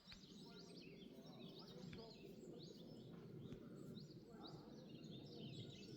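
Faint chirping of small birds, many short rising and falling calls overlapping, over a low steady rumble of outdoor noise.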